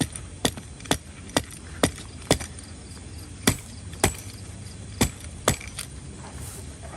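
A series of about a dozen sharp knocks, roughly two a second, with a couple of short pauses.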